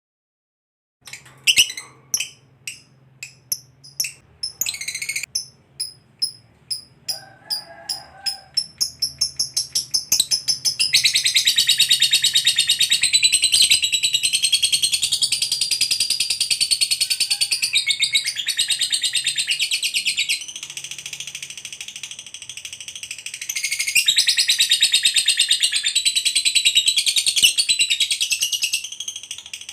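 Lovebird chattering: sharp single high chirps that come faster and faster, running about ten seconds in into a long unbroken trill, the prized 'ngekek panjang' of a fighter lovebird. The trill eases briefly about two-thirds of the way through, then picks up again and cuts off near the end.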